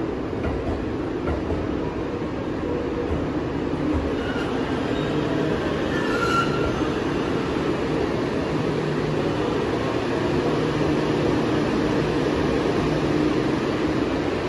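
Electric train running at a station platform: a steady rumble with a motor hum that shifts in pitch and grows a little louder, and a short high squeal about six seconds in.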